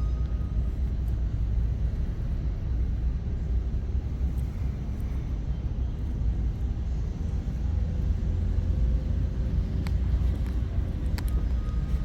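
Steady low rumble of background noise in a large indoor exhibition hall, with a couple of faint clicks near the end.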